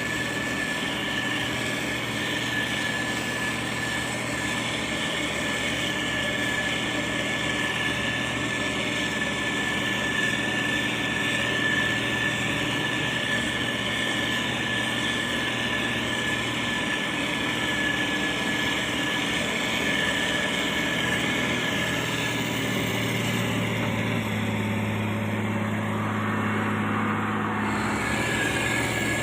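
Diesel engine of heavy road-building machinery running steadily, with a constant high whine over it; a deeper engine hum grows stronger for a few seconds near the end.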